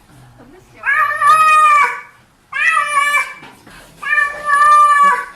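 A domestic cat meowing three times: loud, drawn-out meows, the first and last each lasting over a second.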